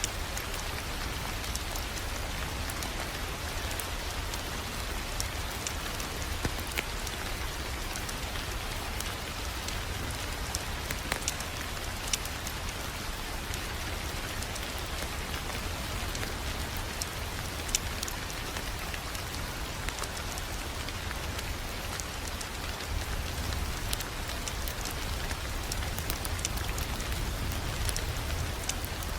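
Wood fire crackling in a fireplace: a steady hiss with scattered sharp pops and snaps, over a low, even rumble.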